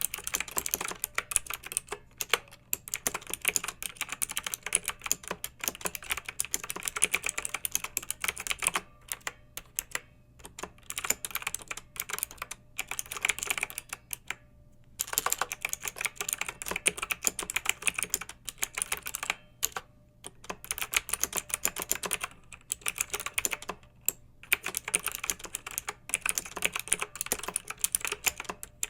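Clicky mechanical keyboard typing: fast runs of sharp keystrokes broken by short pauses, the longest about halfway through.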